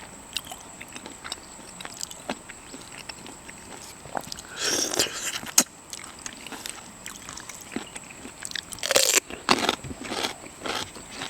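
A person chewing and biting into seafood, egg-bearing squid, with small wet clicks throughout and two louder, longer noisy bursts of eating about four and a half and nine seconds in.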